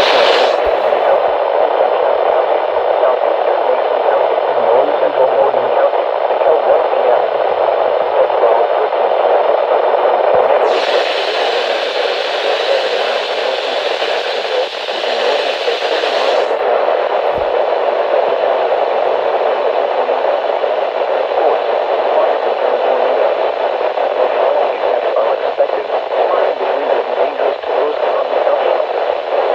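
Steady hiss of radio static from a receiver with no clear programme coming through, its tone turning brighter and sharper for about six seconds in the middle.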